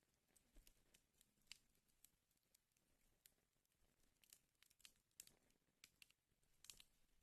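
Wood fire crackling in a fireplace: faint, irregular snaps and pops over a soft hiss.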